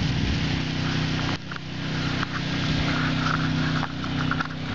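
Footsteps crunching and crackling on ice-crusted ground, over a steady low mechanical hum.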